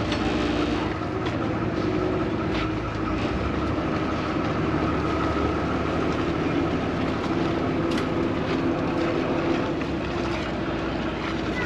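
Vaporetto water bus engine running steadily as the boat cruises, a constant low hum and rumble under water and wind noise, with a couple of light ticks.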